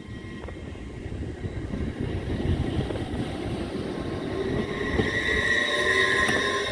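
Passenger train moving through the station, its rumble growing steadily louder as it comes closer. A high, steady squeal or whine joins in over the second half.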